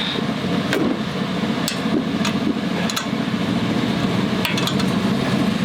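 Metal tools and engine parts clinking: several sharp, separate clicks as the exhaust muffler bolts are worked off a mini bike engine. A steady low hum runs underneath.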